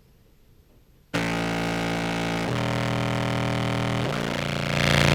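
Contrabass clarinet played through a fuzz and compressor pedal chain. After about a second of near silence, a run of loud, sustained low notes starts suddenly, moving to a new pitch twice and swelling louder near the end.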